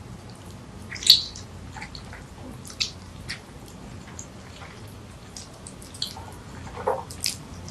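Close-up eating sounds of curry noodles with cheese being chewed: scattered short, wet mouth clicks and smacks, the loudest about a second in.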